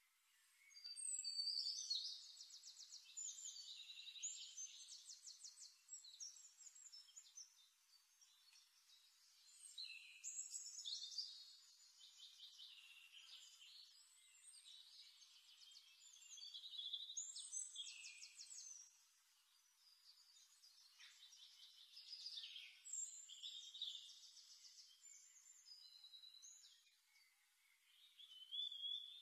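A songbird singing: high, quick trills and chirps that come in louder phrases about every six seconds, with a continuous thinner twitter between them.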